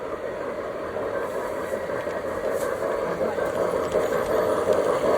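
Lionel model Pennsylvania Mikado steam locomotive running along its track with a steady rolling, mechanical noise that grows gradually louder near the end.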